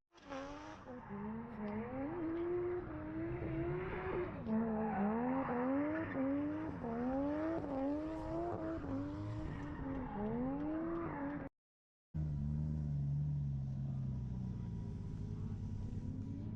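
Drift car's engine revving hard, its pitch climbing and dropping over and over as the throttle is worked. After a brief cut to silence, a lower, steadier engine note slowly falls away.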